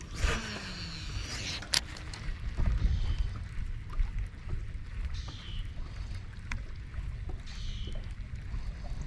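Steady wind rumbling on the microphone and water around a small fishing boat. In the first two seconds there is a swishing sound falling in pitch, then a sharp click.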